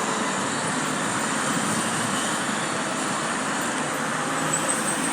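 Steady street traffic noise: a continuous wash of passing vehicles with no single sound standing out.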